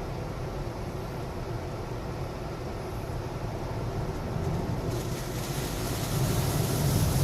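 Automatic car wash machinery heard from inside the car: a steady low rumble, then about five seconds in a hissing rush starts and grows louder.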